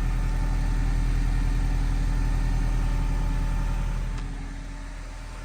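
1996 Toyota Camry's 2.2 L four-cylinder (5S-FE) engine idling steadily, heard through its exhaust. The sound drops noticeably in level about four seconds in, then carries on at the lower level.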